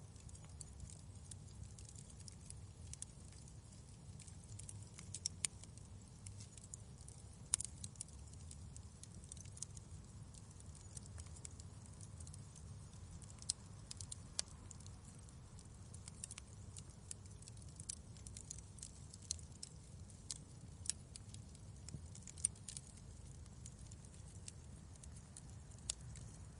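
Fireplace crackling faintly: scattered sharp pops and snaps, a few louder than the rest, over a low steady rumble of burning logs.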